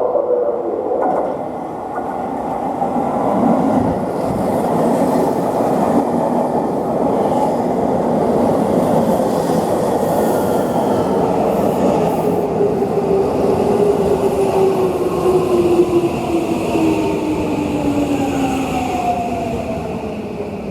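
Seibu 6000 series electric train running on the rails, with wheel and rail rumble. The traction motors give a whine that falls slowly in pitch as the train brakes to a stop.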